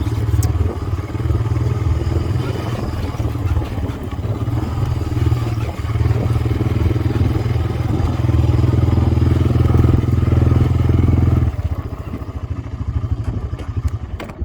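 Four-wheeler (ATV) engine running steadily, then dropping away sharply about eleven and a half seconds in.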